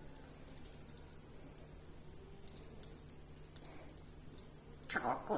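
African grey parrot making soft, scattered clicking sounds, then a short burst of louder, pitch-sliding vocal sounds near the end.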